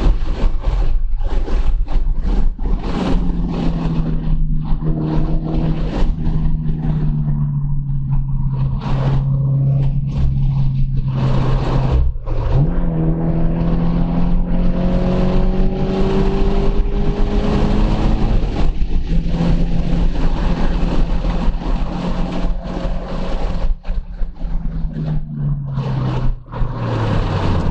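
2014 Subaru BRZ's flat-four engine driven hard on a race track, heard inside the cabin over loud road and wind noise. The engine pitch holds steady, then jumps up sharply about twelve seconds in, climbs again, and drops near the end as the car slows and speeds up through the corners.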